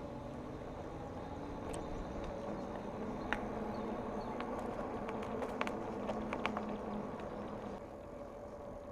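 Bicycle riding noise: a steady rolling hiss with a run of sharp clicks and rattles in the middle.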